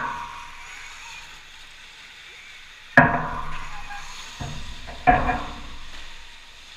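Sharp knocks with a ringing decay, echoing in a large hall: one at the start, then a loud one about three seconds in, a weaker one soon after, and another loud one about five seconds in.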